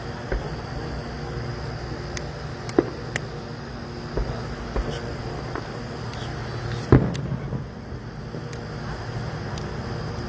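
Distant fireworks going off as scattered sharp bangs and pops, the loudest about three seconds in and about seven seconds in, over a steady low rumble.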